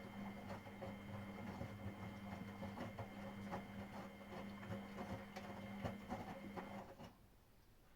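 Miele Professional WS5436 washing machine running: a steady motor hum with irregular clicks and knocks, which stops abruptly about seven seconds in.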